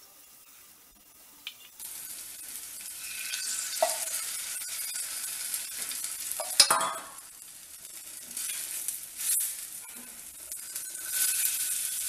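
Batter-coated stuffed bread roll frying in a little oil in a non-stick pan: a hissing sizzle that sets in about two seconds in and swells and fades, with a sharp clack about six and a half seconds in.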